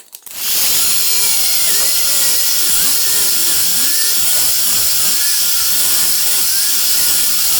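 Heat gun switched on just after the start and blowing steadily: a loud rushing hiss with a faint steady whine, heating a phone's back cover to soften its adhesive.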